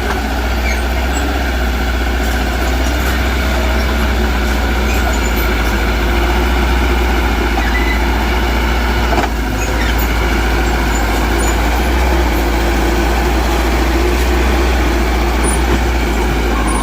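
Heavy construction machine's diesel engine running steadily under load, with a deep, constant rumble. A single brief knock sounds about nine seconds in.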